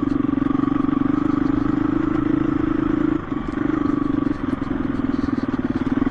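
KTM 350 EXC-F single-cylinder four-stroke dirt bike engine running steadily under load on the move, dipping briefly twice, about three and four and a half seconds in, as the throttle eases. Small clicks and clatter over it.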